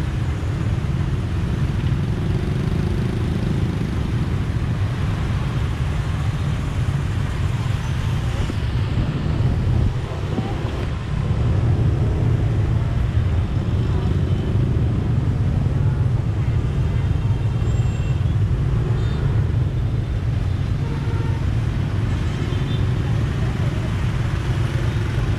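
Motorbike riding through dense city traffic: a steady low rumble of engine and road noise with the traffic around it, dipping briefly about ten seconds in.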